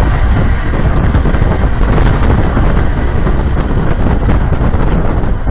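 Loud, steady low roar of strong wind buffeting the microphone from a tornado, with faint regular ticks about twice a second.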